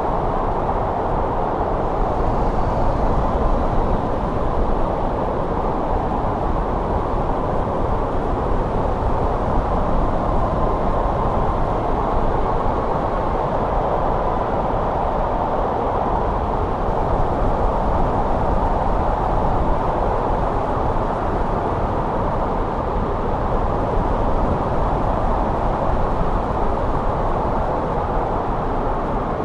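Steady winter wind blowing, a low, even rushing noise with slight swells.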